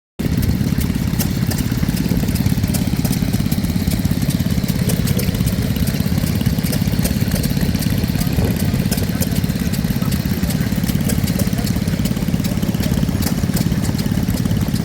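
Vintage stationary engine running steadily at an even pace, close by.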